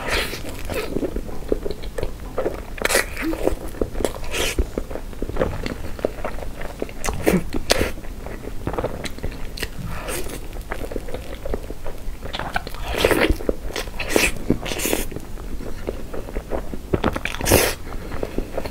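Close-miked chewing of soft cream-filled crepe cake: moist mouth and lip noises coming at irregular intervals as she bites, chews and swallows.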